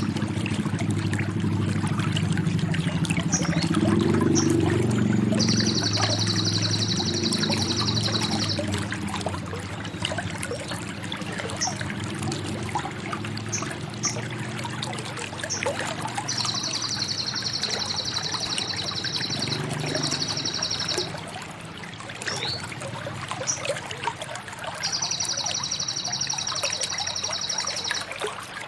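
Sogok ontong bird singing a high, fast trill of about three seconds, repeated four times with short chirps in between, over a steady sound of pouring, trickling water that is fuller and louder in the first nine seconds or so.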